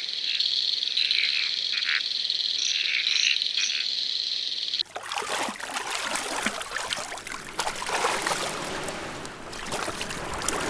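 A frog chorus: a steady, high-pitched trilling with repeated croaking pulses. About five seconds in, it cuts abruptly to a dense crackling, hissing noise.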